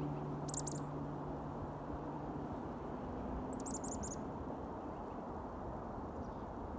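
Small birds giving high, thin, quick down-slurred chirps: a short burst of about three notes half a second in and a run of about six notes around the middle. Under them is a steady low rumble of outdoor background noise.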